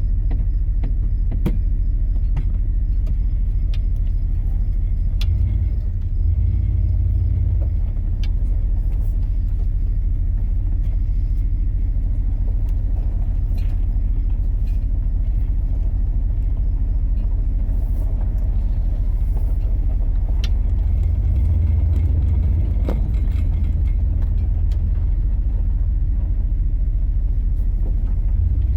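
Car running with a steady low drone, with scattered light clicks and rattles over it.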